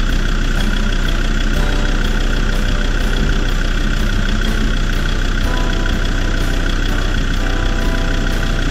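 Land Rover Discovery 2 engine idling steadily while the vehicle stands on the track, with background music playing over it, its chords changing every couple of seconds.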